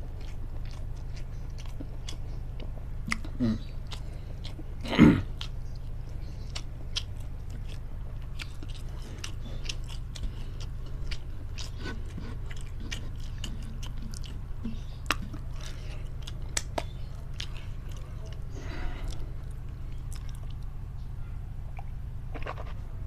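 Close-up eating sounds: chewing and biting on a meal of long beans in sambal, with many short wet clicks of the mouth over a steady low hum. There is a brief louder sound about five seconds in.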